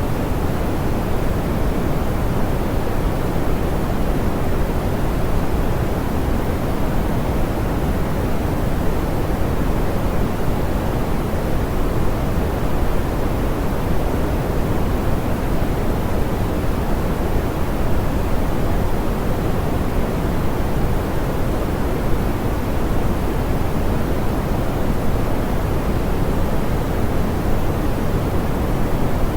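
Steady, smoothed pink noise: an even hiss-like rush weighted toward the low end, with no change in level.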